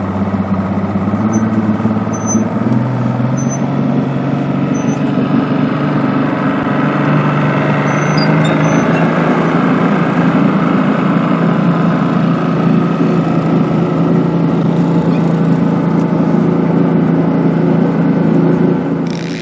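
Motorboat engine running steadily at speed, with rushing wind and water noise. Its pitch rises slightly about two and a half seconds in, then holds, and the sound cuts off suddenly at the end.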